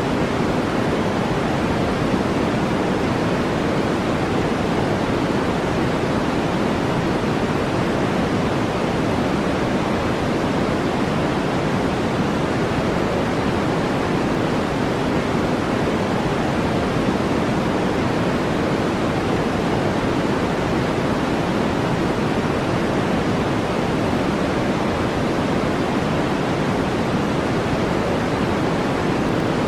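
Steady synthetic noise of the brown- or pink-noise kind used for sleep and relaxation: an even, unbroken hiss, strongest in the low-middle range and thinner toward the treble.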